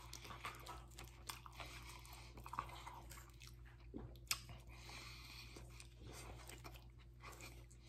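Faint chewing and biting into a veggie sub sandwich, a man's mouth working through a mouthful, with a few sharper clicks near the middle.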